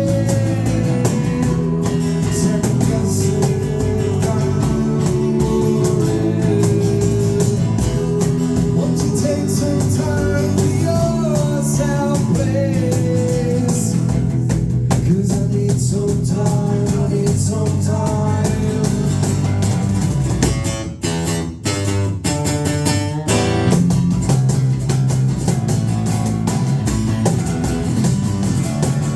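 Live rock band playing a song with guitar, drums and singing. About two-thirds through, the band drops out to a few sharp stop hits for a couple of seconds, then comes back in full.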